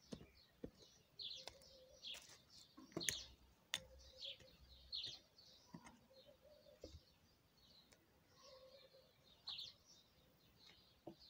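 Faint bird chirps, short calls repeated every second or so, with a few soft clicks and taps between them.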